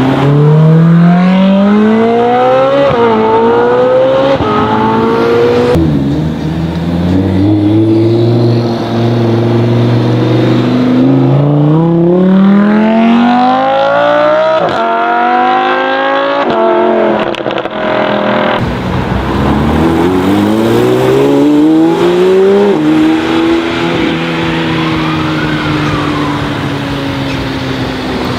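High-performance sports car engines accelerating hard at full throttle, one car after another. Each engine's note climbs steeply in pitch, dropping briefly at each upshift before climbing again, with abrupt changes where one car gives way to the next.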